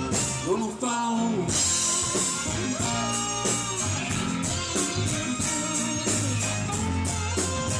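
Live rock band playing an instrumental passage: a lead guitar bending notes over bass and drums, with cymbals.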